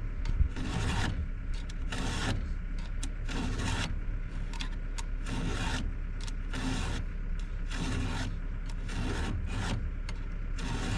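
Hand file sharpening the dull saw chain of a Stihl MS261 chainsaw: a steady run of rasping file strokes, about one a second.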